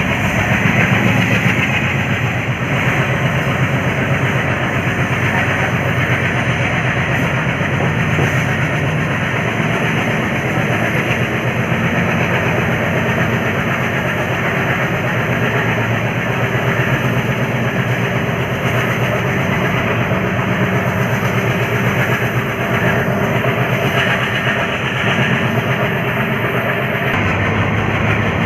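WDM3D diesel locomotive and its train running on the track: a steady engine drone with wheel-on-rail clatter, holding an even level throughout.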